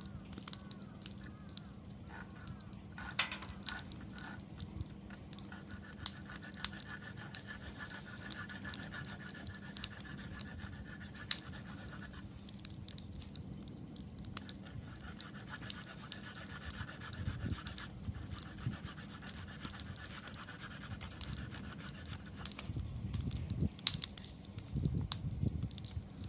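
Wood fire crackling and popping with sharp snaps, growing louder and denser near the end. A fast pulsing trill runs through two long stretches in the middle.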